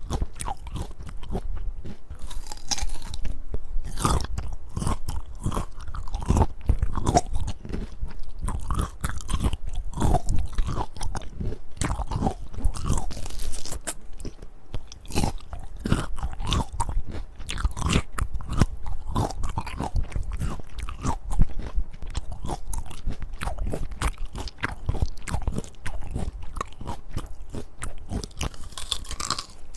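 Close-up crunching and chewing of crisp peach, with bites and chews following one another without a pause.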